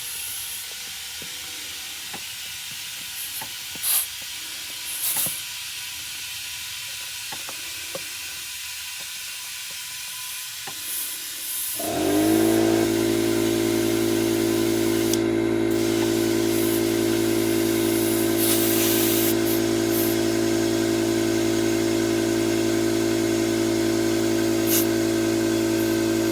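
Compressed air hissing from an air compressor hose into a flat tire, with a couple of clicks. About halfway through, the air compressor's motor suddenly kicks on with a brief rising start and then runs loud and steady, pumping the tank back up as air is drawn off.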